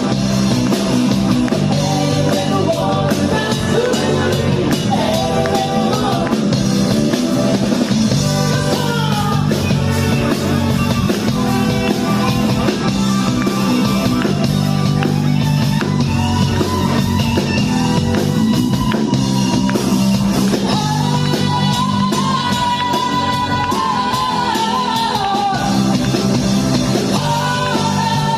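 A rock band playing a song live, with a singer, electric guitar and drum kit.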